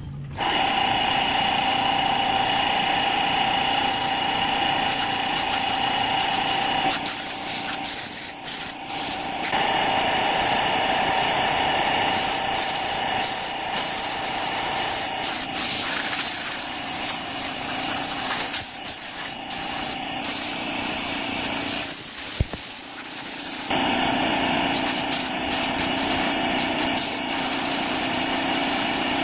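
A motor running steadily at an even, fairly high pitch, in several stretches that change abruptly from one to the next.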